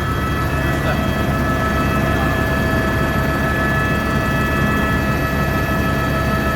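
Helicopter in flight: a loud, fast low rotor throb with several steady whining tones above it.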